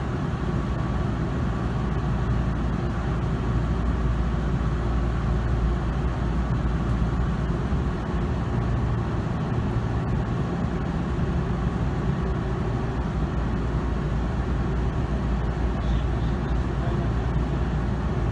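Steady low hum inside a standing electric train car, from its air conditioning and onboard equipment running while it waits at the station.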